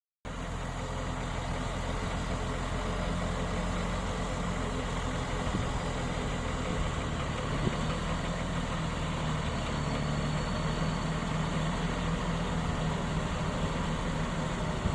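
Heavy diesel engine of earthmoving equipment running steadily at a low, even pitch.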